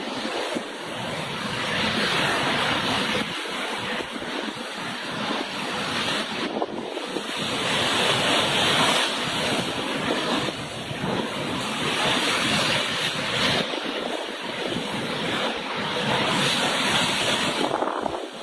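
Cyclone-force wind blowing in gusts, its noise swelling and easing every few seconds, with wind buffeting the microphone.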